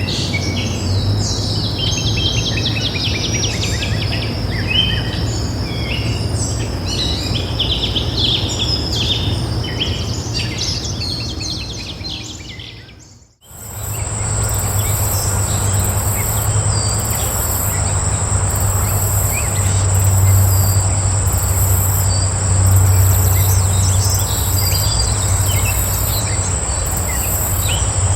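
Several wild birds chirping and singing over a steady low rumble, fading out about halfway through. A different outdoor recording then starts: insects keep up a continuous high, steady trill, with a pulsing buzz above it about once a second.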